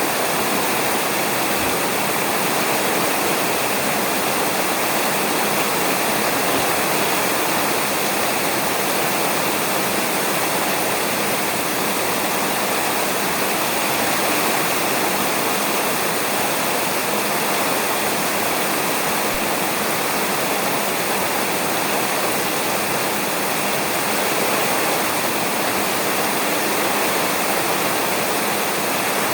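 Rain falling steadily on a roof, an even, unbroken hiss of drops.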